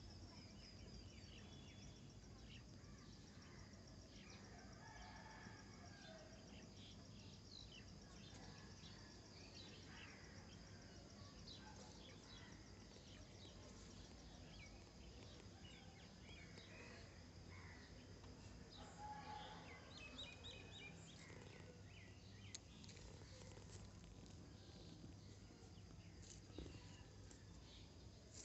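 Faint outdoor ambience: birds giving scattered short chirps and calls over a steady low hum and a thin high whine.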